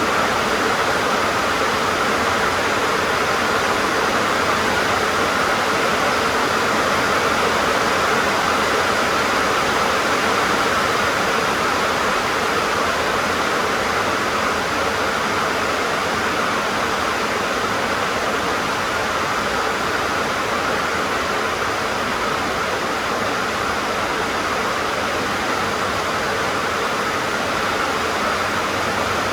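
Heavy rain drumming steadily on a tin roof, a dense, even patter with no letup.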